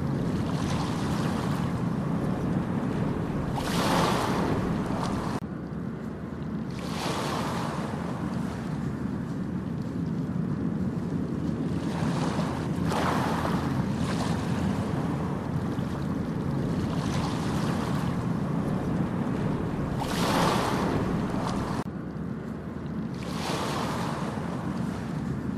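Ocean waves breaking and washing up a beach, a swell of surf every few seconds over a steady low roar of the sea.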